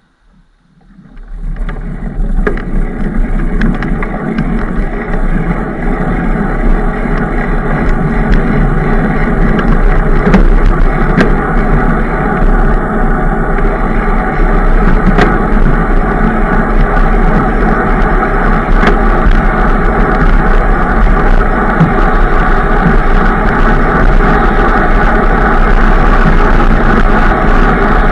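Loud, steady rushing noise of a moving ride, the wind and running noise on a bike-mounted or carried microphone, building up about a second in and then holding.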